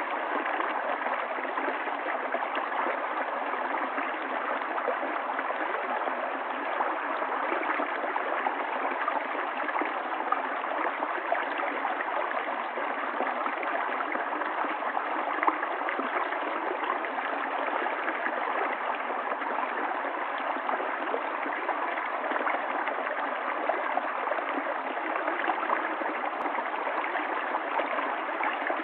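A stream of running water, flowing steadily with an even rush.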